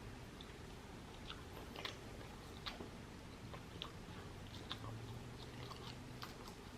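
A person chewing a mouthful of chicken biryani close to the microphone, with soft, irregular mouth clicks.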